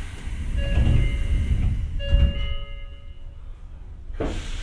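Tokyo Metro 03 series train's doors closing: a hiss of air, steady chime tones, and a heavy thud about two seconds in as the doors shut. A second burst of air comes near the end.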